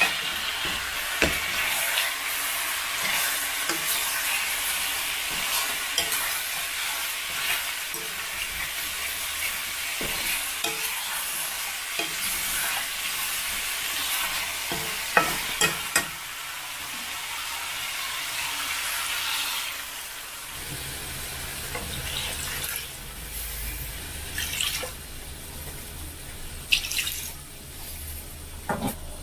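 Food sizzling in a hot pan, with occasional clicks of a utensil stirring it; the sizzle dies down about twenty seconds in.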